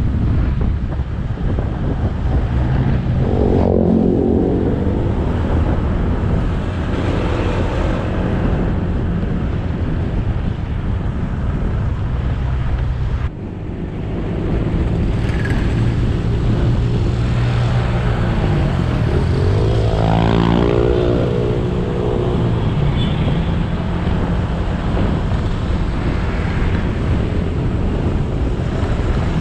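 Motorcycle engine running under way, heard over wind and road noise from the moving bike. The engine pitch sweeps up and back down twice, and the sound drops off briefly about midway.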